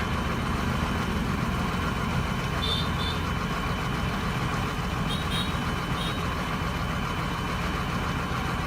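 Heavy truck engine running steadily, with a few short high-pitched beeps in the middle.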